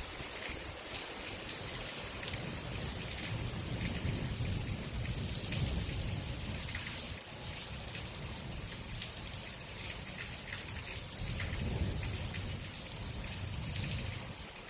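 Heavy rain pouring steadily with a dense patter of drops. A low rumble swells and fades underneath, twice.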